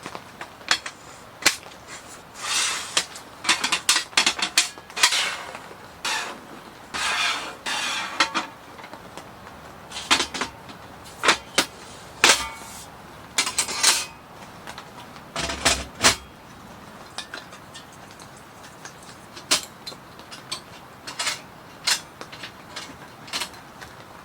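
Objects being handled by hand: a run of irregular clicks and knocks, mixed with several rustling bursts of a second or so.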